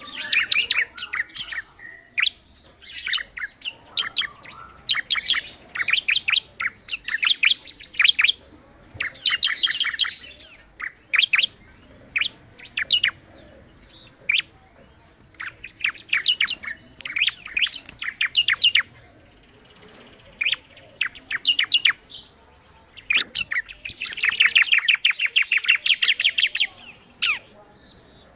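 Ciblek, a prinia, singing: bursts of rapid, sharp repeated chirps separated by short pauses, the longest and densest run near the end.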